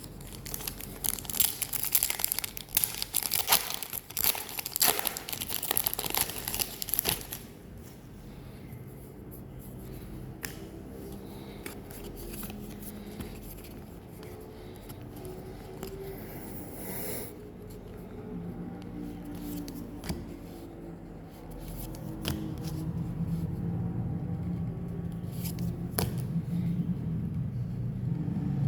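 A Pokémon card booster pack's foil wrapper being torn open and crinkled, a dense run of crackling for about the first seven seconds, then much quieter handling.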